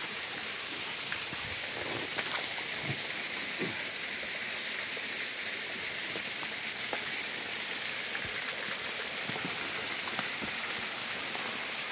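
Small mountain waterfall splashing steadily, an even hiss of falling water, with a few faint ticks scattered through it.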